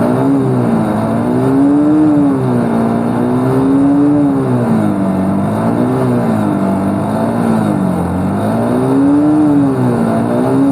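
Bajaj Pulsar NS 160's single-cylinder engine revving up and down in a high gear with the rear wheel and freshly oiled chain spinning off the ground, the pitch rising and falling about four times. The revving flings excess gear oil and dirt off the chain.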